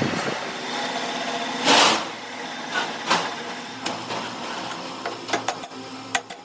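A machine running with a steady hum, with a loud hissing burst about two seconds in and a run of sharp metallic clicks near the end.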